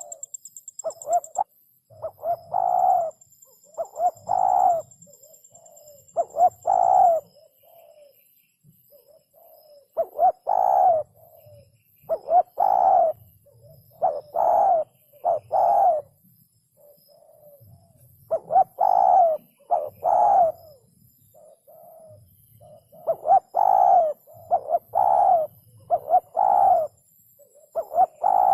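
Spotted dove (chim cu gáy) cooing: phrases of three to five low coos repeated over and over with short pauses between them.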